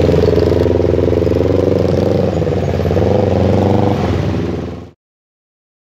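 Motor vehicle engines running steadily with a low hum, cutting off abruptly about five seconds in.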